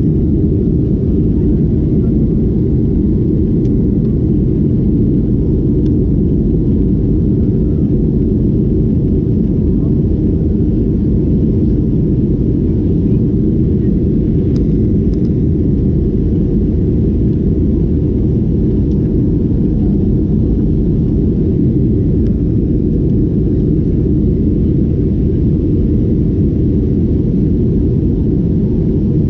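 Boeing 737-800 jet noise: a steady low rumble at an even level, with a few faint clicks.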